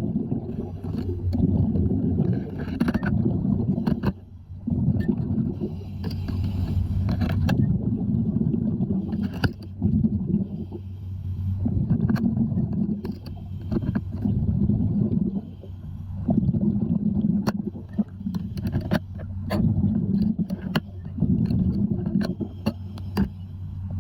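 Underwater sound of a diver: a rumble of breath and bubbles that swells and fades every few seconds over a steady low hum, with many sharp clicks.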